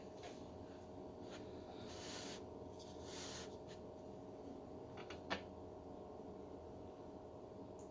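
Quiet sounds of someone eating ramen: two short hissy sounds about two and three seconds in, and a single sharp click a little after five seconds, over a faint steady hum.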